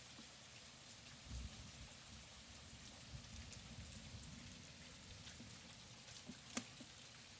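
Faint steady rain, with single drops ticking on a surface here and there and one sharper drip about six and a half seconds in.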